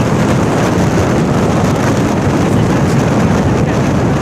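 Steady wind noise on the microphone from a moving motorcycle, with the bike's engine and road noise underneath.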